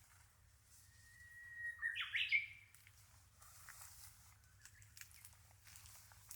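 A bird singing once about two seconds in: a long held whistle followed by a quick flourish of rising and falling notes, over faint outdoor ambience.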